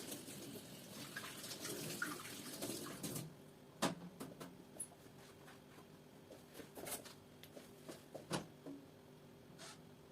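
Water running and stopping abruptly about three seconds in, followed by a few light clicks and knocks over a low steady hum.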